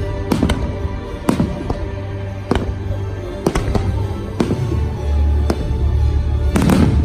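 Fireworks bursting with sharp bangs about every half second to second, the biggest near the end, over the show's music soundtrack with a heavy bass.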